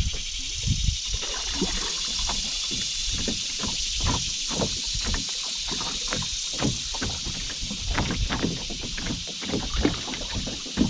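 Buffalo River water running steadily with many small, irregular gurgles and splashes. Wind buffets the microphone in low rumbles.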